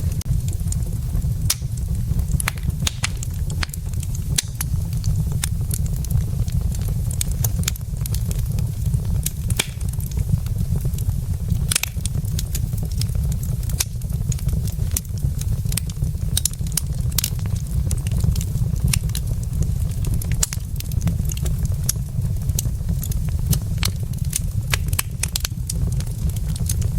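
Wood fire burning in a fireplace, crackling with frequent sharp, irregular pops and snaps over a steady low rumble.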